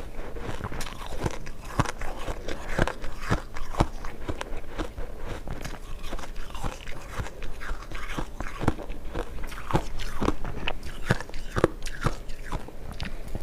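Refrozen ice chunks being bitten and chewed close to the microphone: a rapid, irregular run of sharp, crisp crunches and cracks.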